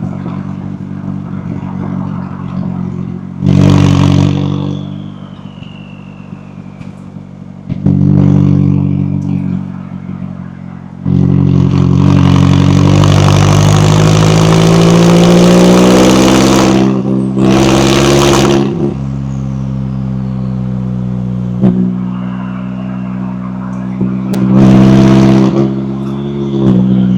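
McLaren 570S twin-turbo V8 exhaust running at low revs with short throttle blips about four and eight seconds in. From about eleven seconds it makes a long pull with the pitch climbing for several seconds, then gives a sharp burst and another blip near the end. A thin high whistle falls away after the first blip.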